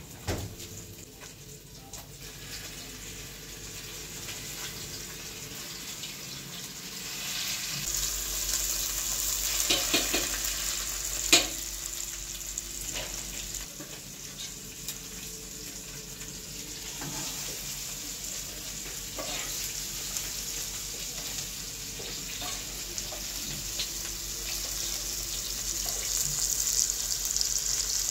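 Food frying in hot oil: a steady sizzle that grows louder about eight seconds in and again near the end, with a few light knocks and one sharp knock about eleven seconds in.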